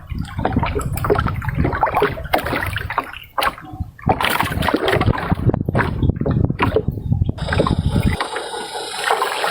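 Water splashing and sloshing in irregular bursts over a low rumble, changing abruptly near the end to a steadier hum.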